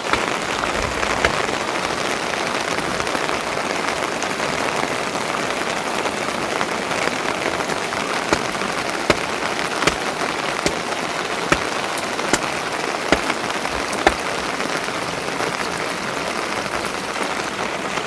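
Steady rain falling, a dense even hiss, with sharp louder drop impacts that come about once a second in the middle stretch, like water dripping onto a hard surface.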